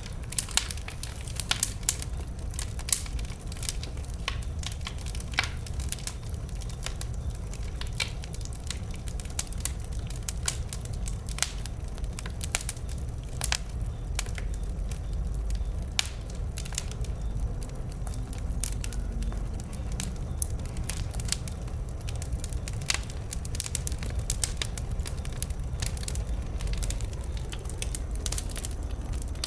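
Wood bonfire burning, with irregular sharp pops and snaps from the burning wood over a steady low rumble.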